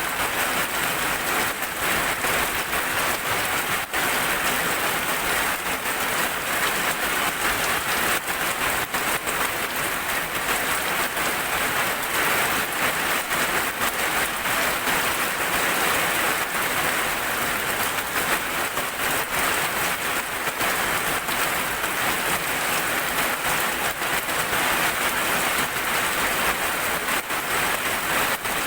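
Steady rain falling, a dense even hiss with scattered individual drop hits and no change in strength.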